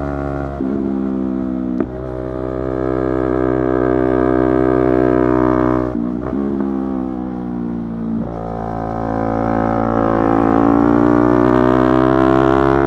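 Yamaha YZF-R3 engine revving hard through the gears, its pitch breaking and dropping at quick gear changes near 2, 6 and 8 seconds in, then climbing steadily near the end.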